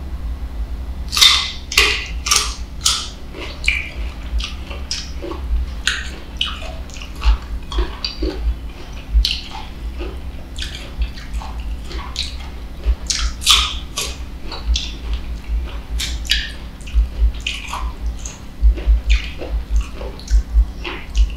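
Close-miked chewing of crisp green mango slices dipped in sweet fish sauce: an irregular run of sharp, wet crunches and mouth clicks, several a second, over a steady low hum.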